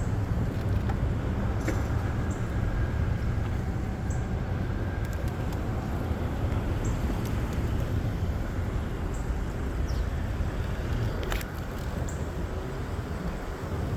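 Steady low rumble of city road traffic and vehicle noise, with scattered light clicks and one sharper click about eleven seconds in.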